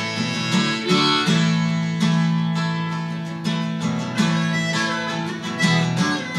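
Acoustic guitar strumming with a harmonica playing held notes over it, in a gap between the sung lines of a live country-style song.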